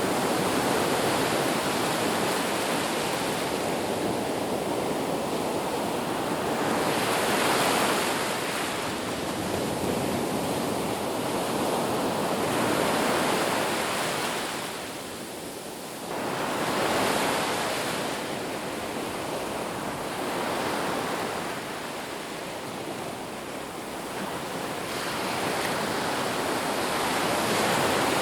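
Ocean surf: waves washing onto a beach in an even hiss that swells and fades every few seconds as each wave breaks and draws back.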